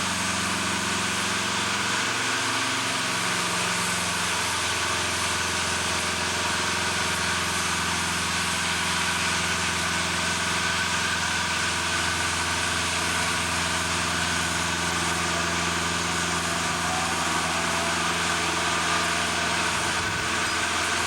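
An engine running steadily, its pitch shifting slightly about two to three seconds in, over a steady hiss.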